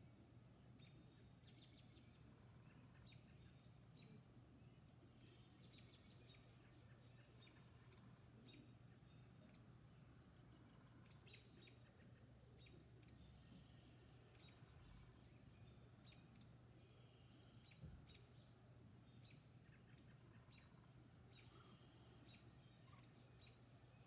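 Faint dawn birdsong: many short, high chirps and calls from several birds, scattered all through, over a steady low hum. A single soft bump sounds about eighteen seconds in.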